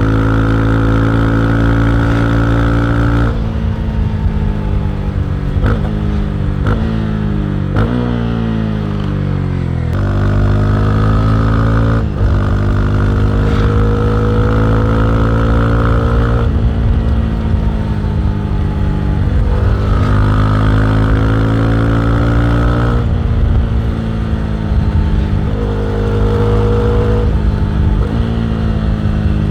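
Honda CB300R's single-cylinder engine and exhaust running, its revs climbing and then dropping sharply several times, with steadier held stretches in between.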